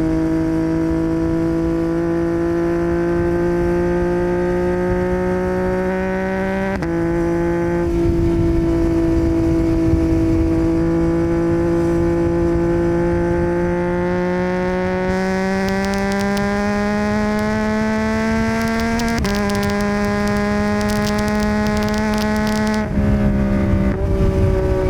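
2021 Yamaha MT-09's inline three-cylinder engine through a Yoshimura R77 exhaust, pulling steadily with its pitch climbing slowly between gear changes. The pitch breaks and drops at a shift about a quarter of the way in, again about three-quarters in, and once more near the end. A steady wind rush sits underneath.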